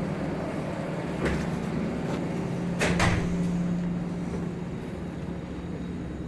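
A short knock about a second in and a louder double knock about three seconds in, over a steady low hum and rumble that slowly fade.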